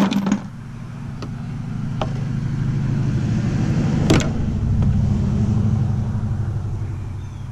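A motor vehicle passing by, its low engine sound swelling over about four seconds and then fading away. A sharp click right at the start, with a few fainter clicks during the pass.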